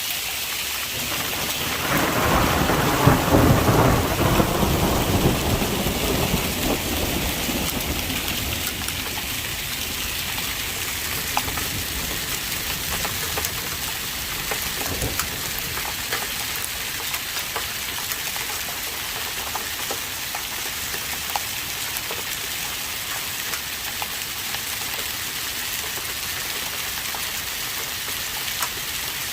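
Heavy rain falling steadily through a thunderstorm. A roll of thunder swells about two seconds in and rumbles away over the next several seconds, with scattered sharp ticks of drops or hailstones striking a surface.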